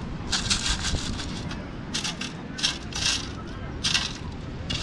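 Sand being shaken and sifted out through the holes of a metal detecting sand scoop, in a series of short hissing shakes, with a small metal object clunking inside; the object turns out to be a dime.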